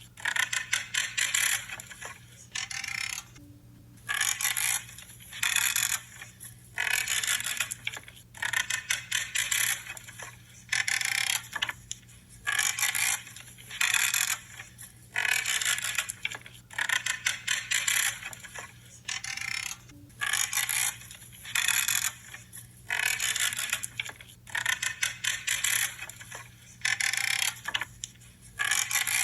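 Shears cutting through branches again and again, one creaking, crackling cut roughly every second.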